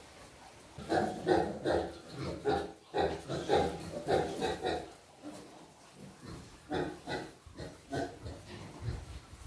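Pigs grunting in quick runs of short calls, several a second, with a pause about halfway through.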